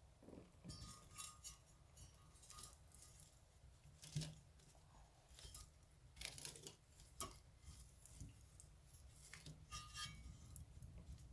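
Fireplace fire crackling: irregular sharp pops and snaps over a faint low rumble, with the loudest snap about four seconds in.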